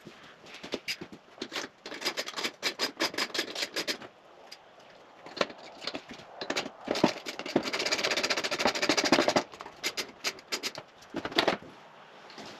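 Hand tools and bike parts being worked during the strip-down of a dirt bike's rear end: bursts of sharp clicks and knocks, with a longer run of fast, dense clicking in the middle.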